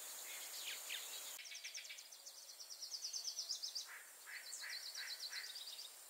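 Faint birdsong: two rapid high-pitched trills and a few short descending chirps, over a light steady hiss.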